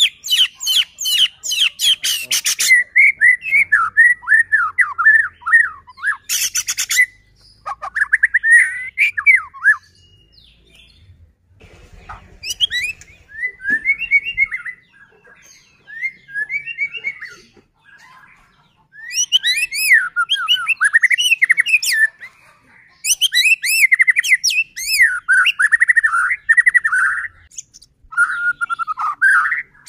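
White-rumped shama (murai batu) in full song: varied whistled phrases that glide up and down, with fast rattling runs of notes near the start and about six seconds in, and two short pauses.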